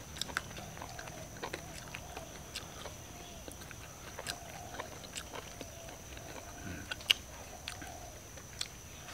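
Mouth sounds of people eating by hand: chewing with soft, scattered wet clicks and lip smacks.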